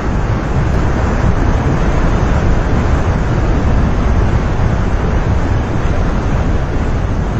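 Loud, steady rushing noise with a heavy low rumble and no distinct events, of the kind made by surf, a waterfall or strong wind on the microphone.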